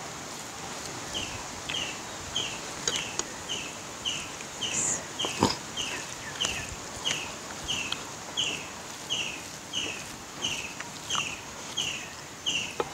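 A bird calling steadily: short, high, downward-slurred chirps repeated about three times a second, with a few soft clicks and knocks among them.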